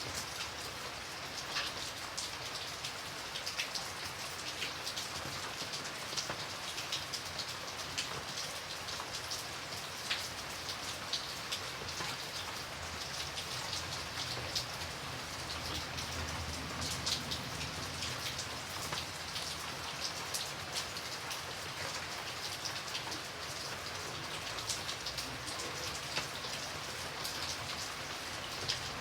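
Steady rain falling, with a constant hiss and many separate drops ticking on a surface at irregular moments.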